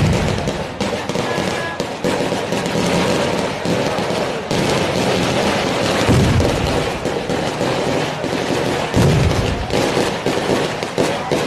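Fireworks going off in a fire: a continuous, rapid crackling and popping of many small explosions, with heavier booms about six and nine seconds in.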